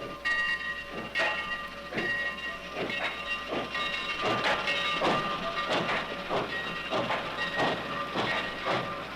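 A train rolling on steel rails, its wheels clacking over the rail joints about twice a second, with steady high metallic ringing tones underneath.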